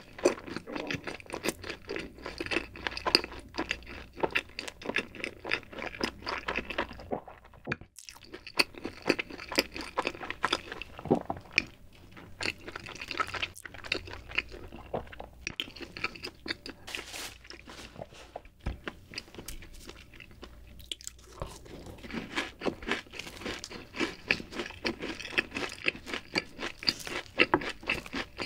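Close-miked chewing of fried cheese balls: crisp crust crunching between the teeth in dense, rapid clicks, with two short pauses.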